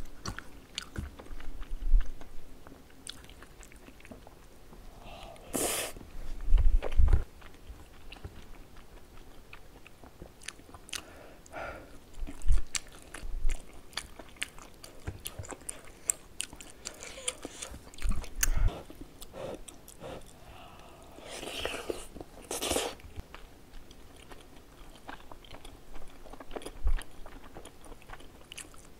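Close-miked eating sounds: chewing of soft, chewy saucy rice cakes (tteokbokki), with wet mouth noises and frequent small clicks of chopsticks and a metal spoon against the bowl. Two louder noisy stretches come partway through.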